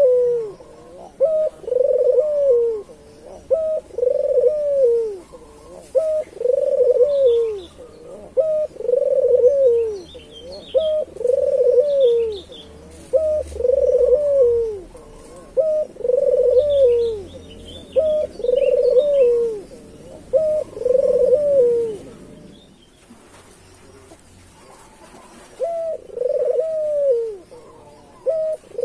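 A puter dove (domestic ringneck dove) cooing over and over, one arched coo about every two seconds. The cooing breaks off for a few seconds near the end, then starts again. Faint, higher chirps of small birds can be heard behind it.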